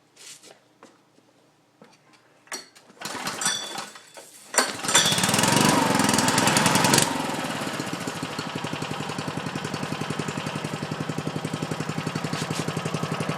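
Toro walk-behind mower's Suzuki four-stroke engine cold-started on choke: a few quiet clicks, then it catches about four seconds in and runs fast and loud for a couple of seconds before dropping to a lower, steady, evenly pulsing idle.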